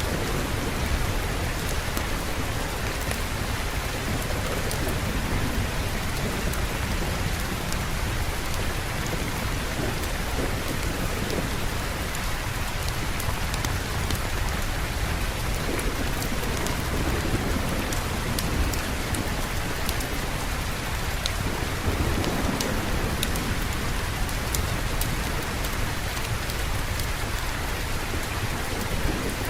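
Steady rain falling, with scattered sharp drop ticks and a constant low rumble, and soft rolls of gentle thunder swelling now and then.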